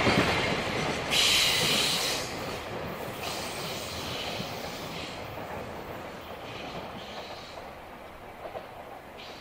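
Tail end of a JR Freight container train of Koki 100-series flat wagons passing and running away, its wheels rumbling on the rails and fading steadily. A high wheel squeal comes and goes a few times as the wagons take the curve.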